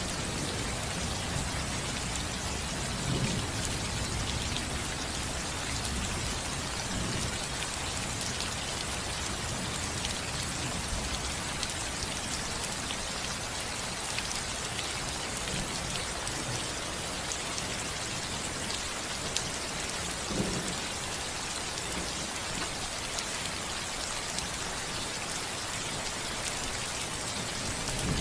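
Steady rain falling on a house roof, an even hiss of many drops. A few low rumbles of thunder swell up briefly, near the start and again about two-thirds of the way through.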